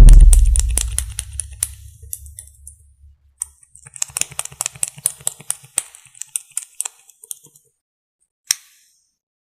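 A loud, deep thump close to the microphone that dies away over about two seconds, then a run of quick, light clicks and taps from makeup cases and tools being handled close to the mic, with one last click near the end.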